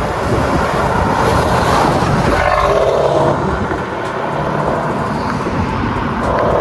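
Porsche Panamera 4S V8 being driven at cruising speed: a steady mix of engine and road noise.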